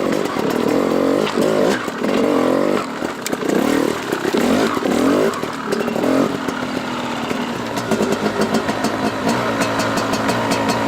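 Dirt bike engine revving in about five short throttle bursts while crawling up a steep climb, then running more steadily at a lower pitch from about six seconds in.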